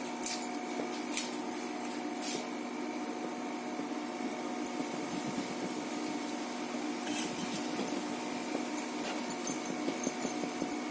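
A steady hum with a few light clinks and taps of a spoon against a cooking pot.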